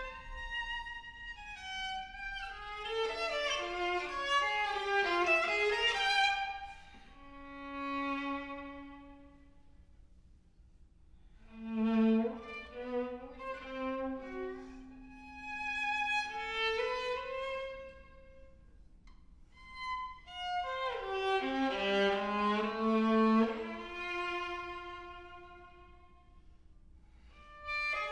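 Viola playing a slow melody in phrases, with long held notes and quieter gaps between phrases.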